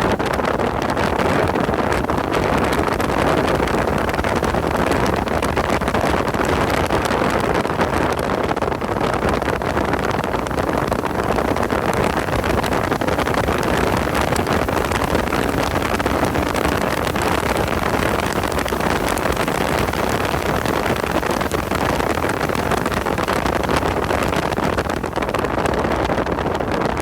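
Car being driven hard on a race track: engine running under load with heavy wind and road noise, steady throughout.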